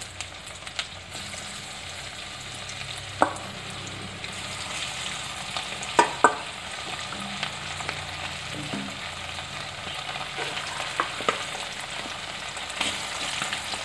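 Marinated chicken pieces sizzling as they fry in hot coconut oil in a pan, a steady hiss broken by a few sharp clicks as more pieces go in.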